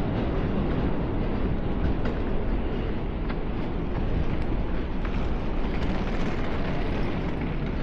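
Steady rainy-night city street noise: a dense low rumble with a hiss of rain over it, without a break.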